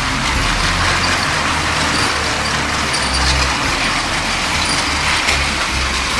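LEGO toy trains running on plastic track: a steady whir and rattle of the electric train motors and wheels, with a faint click or two.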